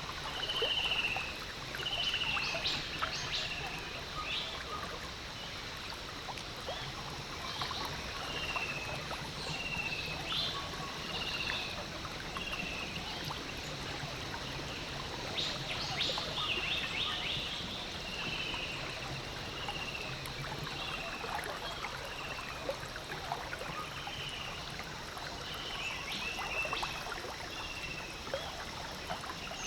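Water trickling and lapping steadily, with a series of short high chirps repeating about once a second from an animal in the background.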